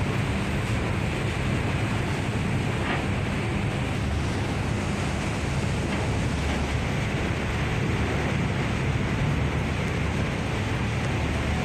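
Strong wind buffeting the microphone and waves washing around a ship at sea, over a steady low rumble.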